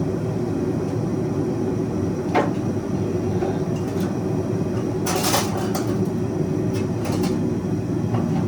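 Gas forge burner running with a steady rushing noise, turned up high to heat the steel faster. A few short clicks and knocks come over it, the loudest about five seconds in.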